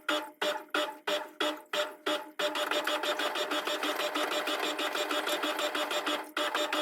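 Washing machine sped up tenfold: rhythmic pulses about three a second, switching about two and a half seconds in to a fast, continuous mechanical whirr and rattle.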